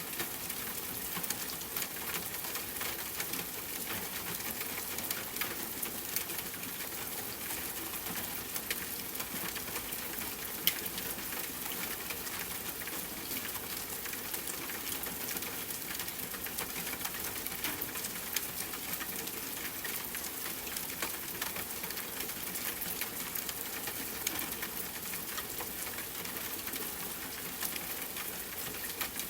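Steady rain mixed with a crackling wood fire: an even hiss dotted with many small crackles and pops, one sharper pop about ten seconds in.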